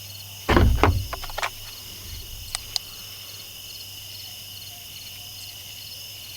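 Crickets chirping steadily, with a quick cluster of loud thumps about half a second in and two sharp clicks a little before three seconds.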